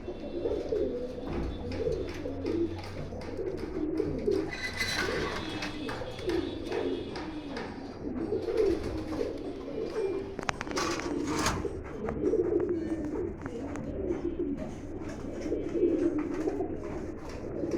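Fantail pigeons cooing: a continuous run of low, warbling coos, with a few sharp clicks around ten to eleven seconds in.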